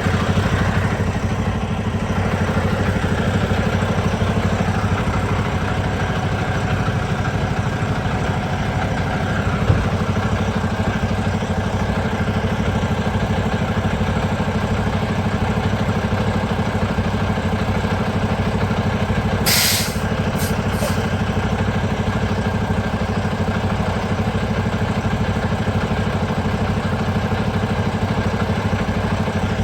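A vehicle engine running steadily at idle. About twenty seconds in there is a short sharp hiss, then two briefer ones.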